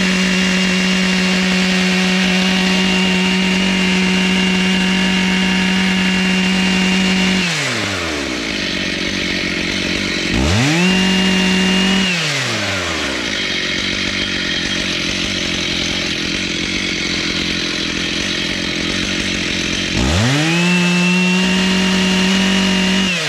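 Two-stroke chainsaw held at a steady high full-throttle pitch for long stretches, with the throttle released three times so that the pitch falls away to a lower idle, and opened back up twice.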